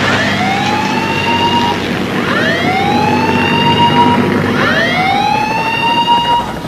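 Shipboard warning siren sounding a series of rising whoops, each sweeping up and then holding its pitch, about every two seconds. It is the alarm before a hazardous landing on the carrier deck, over a steady low hum.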